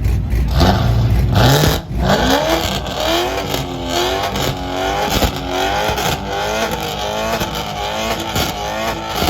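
Car engine with a loud aftermarket exhaust being revved hard for a loudness contest. It climbs in one long rev, briefly drops off just before two seconds in, then is blipped up and down over and over, about one and a half revs a second.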